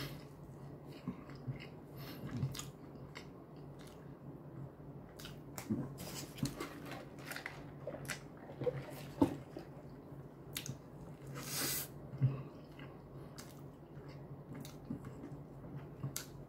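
Close-up chewing and wet mouth smacking of someone eating, with scattered small clicks. Partway through, a drink is sipped through a straw, and a short breathy hiss stands out a little later.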